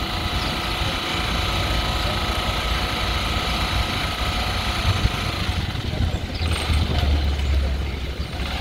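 Honda Storm 125 motorcycle's small single-cylinder four-stroke engine running at idle, a steady even note. About six and a half seconds in, a deeper rumble comes in.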